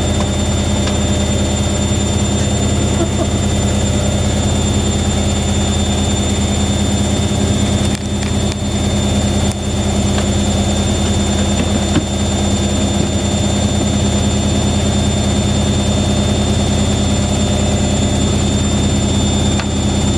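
Fisher & Paykel WM1490F1 washing machine and Hoover A8582 washer dryer running together: a steady, loud motor hum with a thin high whine over it, briefly dipping about eight and twelve seconds in.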